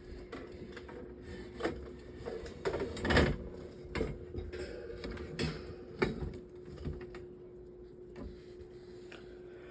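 Irregular light knocks, clicks and short scrapes from handling the metal table fan's parts as it is taken apart for cleaning, over a steady hum.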